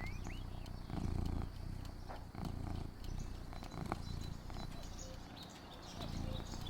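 Domestic cat purring close by, the low rumble swelling and easing roughly once a second with its breathing. Faint bird chirps and small ticks sound over it.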